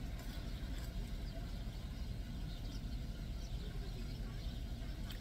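Steady low hum of a car idling, heard inside the cabin, with faint chewing and mouth sounds over it.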